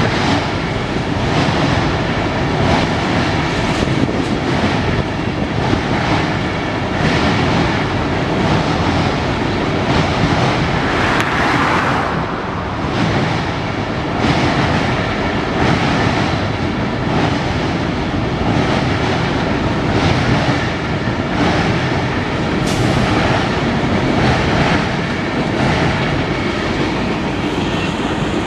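Canadian Pacific freight train rolling past, its wheels clicking in a steady rhythm over the rail joints, with a brief brighter hiss near the middle.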